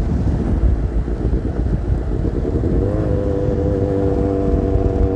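Kawasaki Z800 inline-four with an SC Project aftermarket exhaust running under way, with a heavy low rumble of wind on the microphone. About three seconds in the engine note rises and then holds at a steady pitch.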